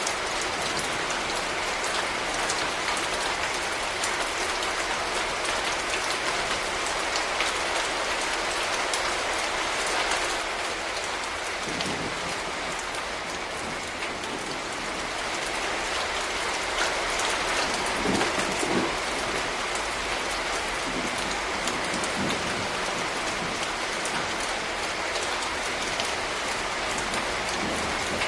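Steady rain falling, a dense even hiss, with a few louder low taps about two-thirds of the way in.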